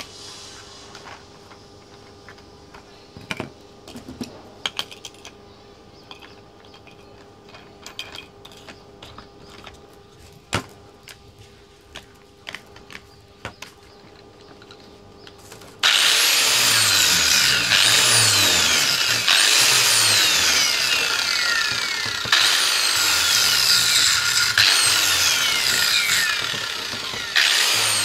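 Light taps and clicks of metal parts being handled. About halfway through, a loud rasping cutting tool starts abruptly on the metal exhaust pipe, its pitch falling again and again, with a few short breaks.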